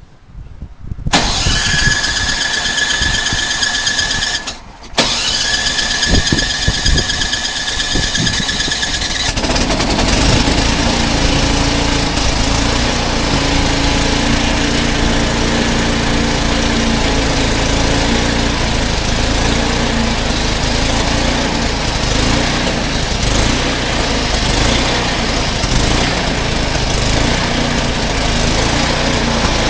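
Snowblower engine turned over by its plug-in electric starter: a high whine of about three seconds, a brief pause, then about four more seconds of cranking. The engine catches about nine seconds in and keeps running steadily.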